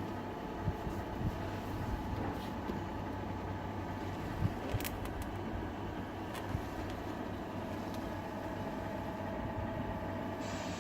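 Tamiya RC model truck running: a steady mechanical hum with a few light clicks.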